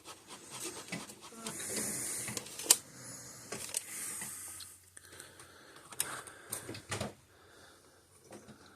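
Small screwdriver stirring and scraping two-part gel epoxy on a mixing surface: two scraping stretches of about a second each, with a few sharp clicks of the tool.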